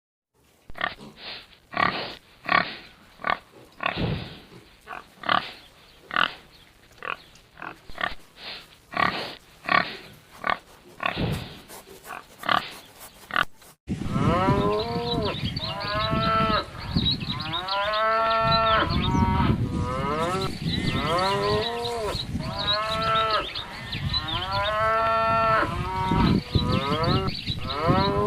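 Farm livestock calling: a run of short calls about one and a half a second for roughly the first half, then an abrupt cut to a herd calling over one another, with long calls that rise and fall in pitch.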